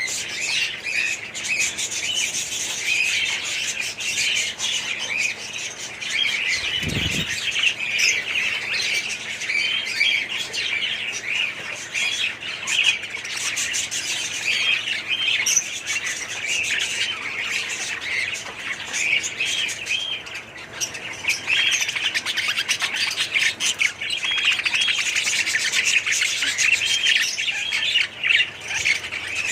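A colony of budgerigars chattering and chirping together, a dense, unbroken mass of overlapping high calls, with a brief low thump about seven seconds in.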